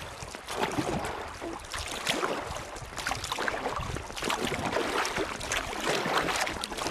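Fast river water running over stones, with irregular splashing.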